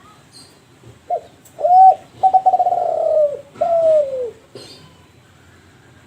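Kelantan spotted dove (derkuku) cooing one phrase. It has a short note, a note that rises then falls, a long rolling coo, and a last coo sliding down in pitch.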